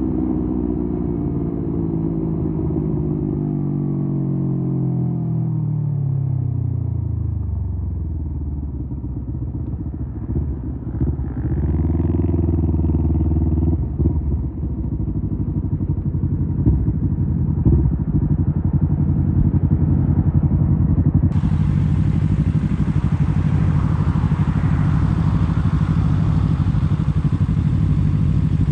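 Kawasaki Z250 parallel-twin engine through an aftermarket SeaPro muffler, its note falling steadily for the first several seconds as the bike slows. It then runs at low revs, with a short rev about twelve seconds in and a few light knocks.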